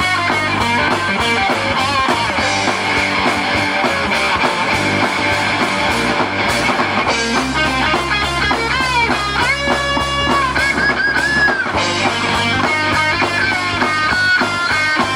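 Live rock band playing an instrumental break led by guitar, with notes bent up and down through the middle of the passage.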